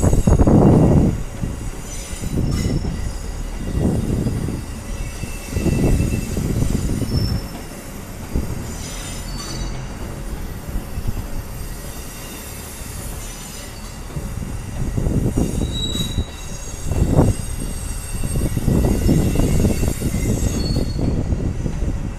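Electric passenger train rolling slowly through curving track, its wheels squealing against the rails in thin high tones that come and go, over a low rumble that rises and falls.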